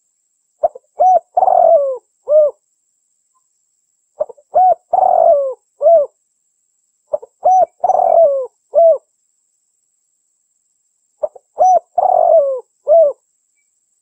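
Female derkuku dove cooing: four repeated phrases a few seconds apart, each a few short coos around one longer coo that falls in pitch.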